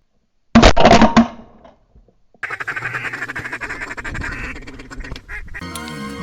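A quick volley of several loud shotgun blasts, then a stretch of rapid, repeated duck quacking. Music starts near the end.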